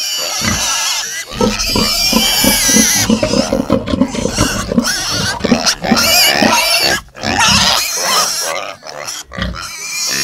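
Pigs grunting in quick runs of short grunts, thinning out to scattered grunts near the end.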